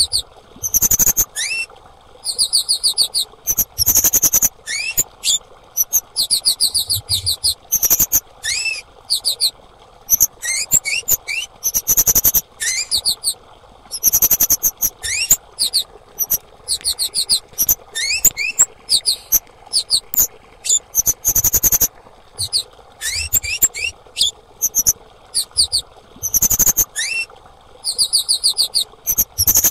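Female kemade (cit keres) bird calling over and over: very high, rapid trilled phrases mixed with short rising chirps, each burst lasting about half a second to a second with brief pauses between. A faint steady hum lies underneath.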